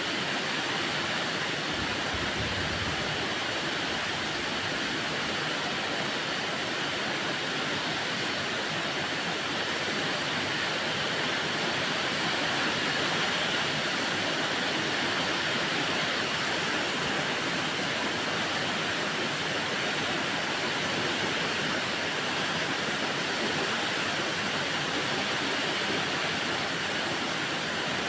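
Heavy rain pouring steadily as an even hiss of falling water.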